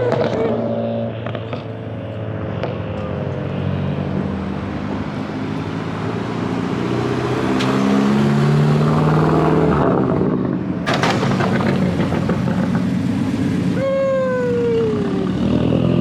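Car engine revving and accelerating with shifting pitch, growing louder about eight seconds in. There is a sharp crack just before eleven seconds and a short falling tone near the end.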